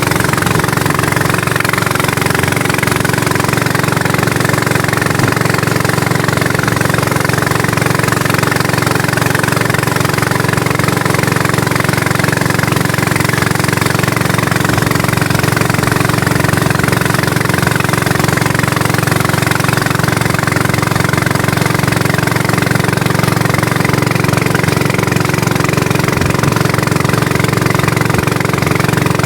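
A motor engine running steadily at an even speed, with no change in pitch or level.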